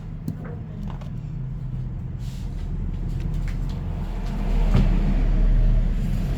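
Low rumble of road traffic, getting louder about four and a half seconds in as a vehicle passes close by, with a few faint small clicks over it.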